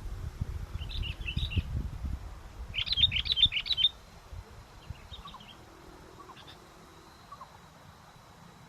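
Sooty-headed bulbul (kutilang) calling in quick clusters of short chirps, loudest about three seconds in, with a few fainter chirps after. Wind rumbles on the microphone and dies away about four seconds in.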